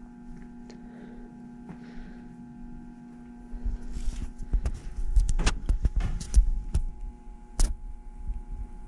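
Model steam locomotive on a toy train layout: a steady electrical hum for the first few seconds, then from about three and a half seconds in an uneven low rumble with sharp clicks and knocks as the train gets going on the track.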